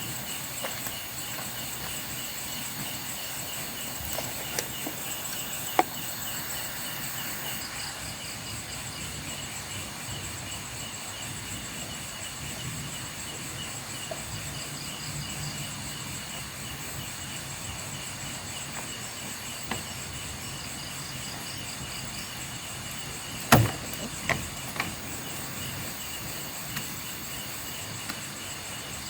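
Night chorus of crickets and other insects, a steady trilling at several high pitches. A few sharp knocks break in: a small one about six seconds in, and about three-quarters of the way through a loud knock followed quickly by two smaller ones.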